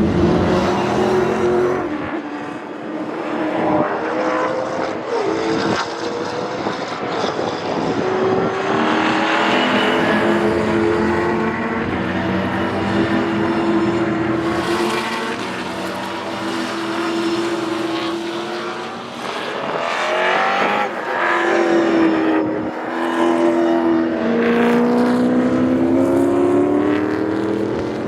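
Racing V8 touring car engines at full throttle on a circuit, the pitch climbing and dropping again and again as the cars accelerate through the gears and lift off. Near the end a long rising rev builds as a car accelerates hard.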